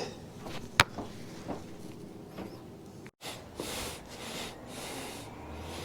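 Soft rustling and handling noises of shoes being put on, with a sharp click a little under a second in.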